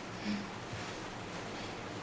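Steady low hiss of room noise with a faint hum, and one brief faint rustle about a quarter second in.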